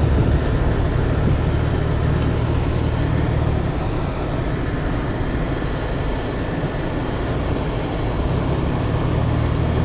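Car engine and tyre noise heard from inside the cabin while driving through snow: a steady low rumble that drops back a little in the middle and picks up again near the end.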